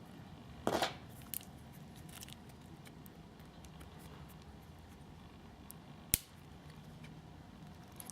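Small metal parts and tools being handled while a brushless motor is taken apart: a brief scrape about a second in, a few light clicks, and one sharp click about six seconds in.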